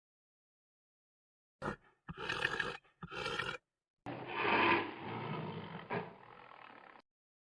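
Animal calls: three short calls beginning about a second and a half in, then a longer call that tails off and stops near the end.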